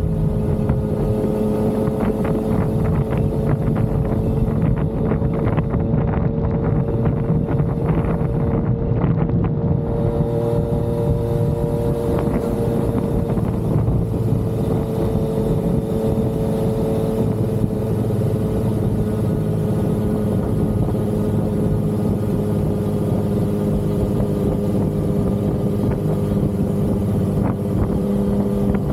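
Yamaha XSR900's inline three-cylinder engine pulling at steady cruising revs, its pitch easing up and down a little, with wind buffeting the microphone, more heavily in the first few seconds.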